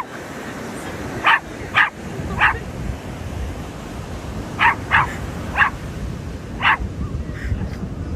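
Sea lion barking: seven short, sharp barks, a group of three and then a group of four.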